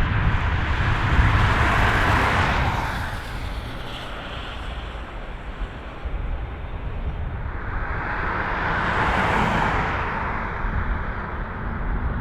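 Jet engine noise from a large airliner landing. It swells to a peak about two seconds in, dies down, then swells and passes again around nine seconds, over a steady low rumble.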